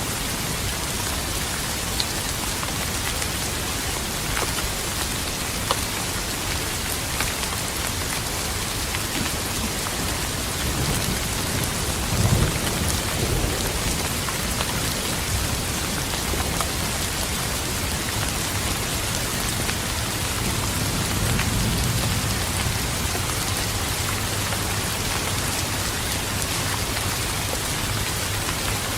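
Steady rain falling and pattering on surfaces, with low rolls of distant thunder twice, about twelve seconds in and again past the twenty-second mark.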